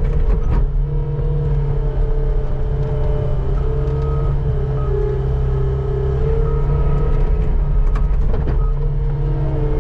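Skid steer running steadily under work, with a steady engine hum, a higher whine that wavers slightly in pitch, and a few short knocks about half a second in and near the end.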